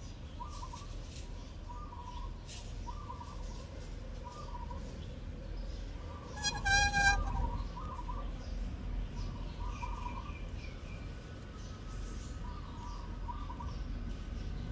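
Bird outdoors calling in short, repeated chirping phrases about once a second, with one louder, high-pitched call of under a second about halfway through.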